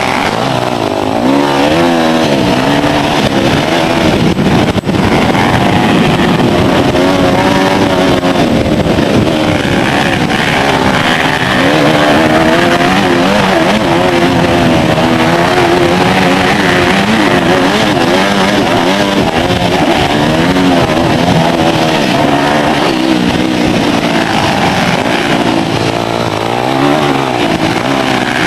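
2006 Yamaha YZ250F four-stroke single-cylinder motocross bike engine racing around the track, its pitch rising and falling over and over as the throttle is opened and closed. It is running with the exhaust cam set one tooth off, so it is not running as well as normal.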